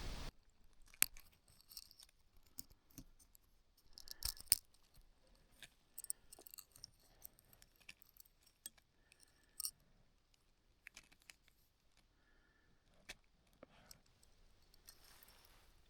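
Faint, sporadic small clicks, taps and light rattles, with a sharper cluster about four seconds in.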